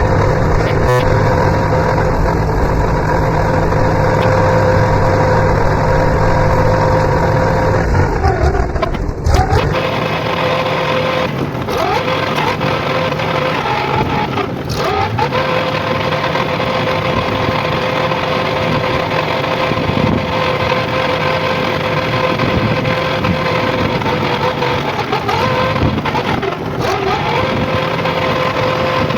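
Tractor engine running steadily while under way. A deep rumble drops away sharply about nine seconds in, and the engine note carries on with a few brief dips.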